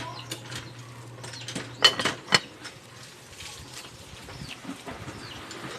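Bamboo firewood crackling under a cooking pot, with scattered small clicks and two sharp pops about two seconds in. Faint bird chirps can be heard too.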